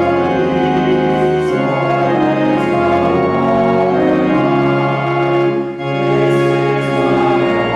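Organ music playing sustained chords that change about every second or so, with a short break between phrases near the end.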